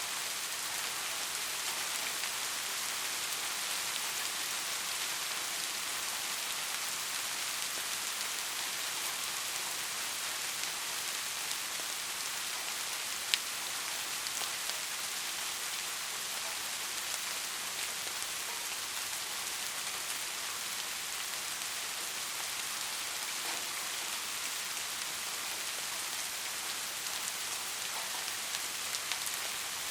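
Steady soft rain hissing, with scattered drop ticks and one sharp click about 13 seconds in.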